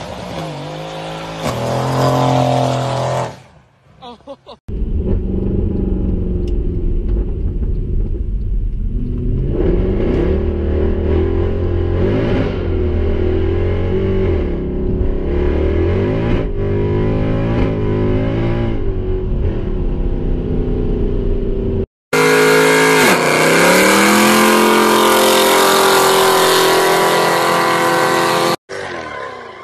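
Mercedes-AMG cars in a run of short clips. First a sedan's engine revs as its tyres squeal through a drift. Then the engine is heard from inside the cabin, rising and falling through hard acceleration and gear changes, and finally there is a loud revving burnout in thick tyre smoke.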